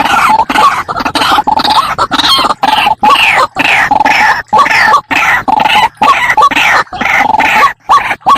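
White-breasted waterhen lure call: loud, harsh, rapidly repeated notes with falling sweeps, broken again and again by sudden short silences.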